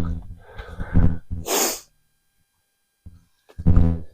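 A man's voiced, breathy intakes build into a sneeze about one and a half seconds in. A short voiced grunt follows near the end.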